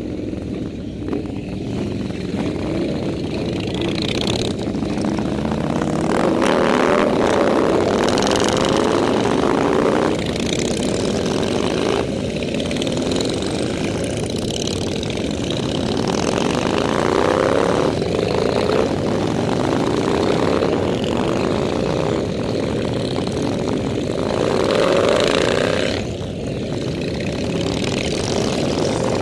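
Motorcycle engine running under acceleration, its pitch climbing over several seconds and dropping back at each gear change, several times over.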